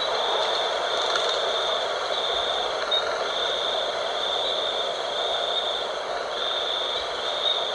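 Steady night wind, with a high insect trill pulsing on and off about once a second over it.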